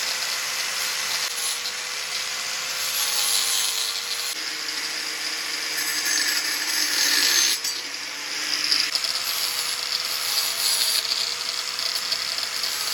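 An electric power tool running steadily on the metal bicycle frame, with a constant motor hum under a rasping, hissing noise as parts are worked off the frame.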